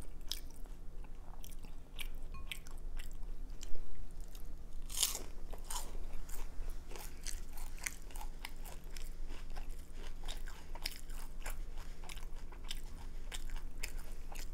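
Close-up crunching and chewing of a crispy fried veggie roll: irregular crackly bites through the fried wrapper, the loudest about four to five seconds in.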